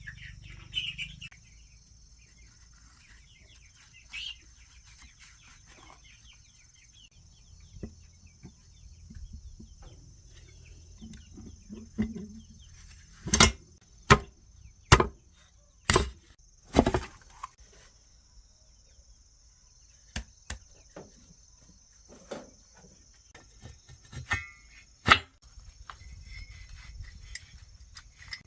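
A series of sharp knocks, five loud ones about a second apart midway through and a few lighter taps scattered around them, over a steady high-pitched hiss.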